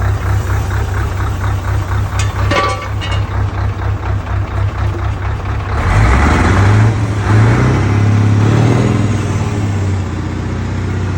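Scania cabover truck's diesel engine idling with a steady pulsing beat, its exhaust running without the muffler. About six seconds in it is revved up, climbing in pitch, then drops back to idle near the end. A few metallic clicks sound around two seconds in.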